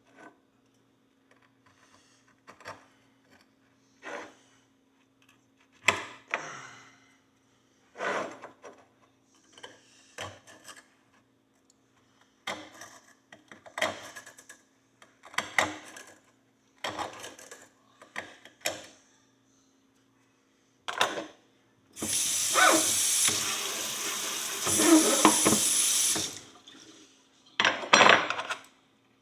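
A string of short separate strokes, about one every second or two, then running water that rushes loudly for about four seconds near the end, while the horseshoe is being cleaned.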